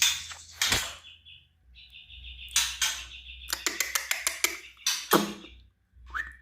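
White-rumped shama (murai batu) singing a competition 'trotol' song: loud sharp notes and rapid rattling runs mixed with held whistles, with a short pause about a second in.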